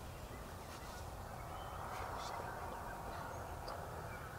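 Faint turkey calling from a distance over a steady outdoor background hiss, with a few brief high songbird chirps.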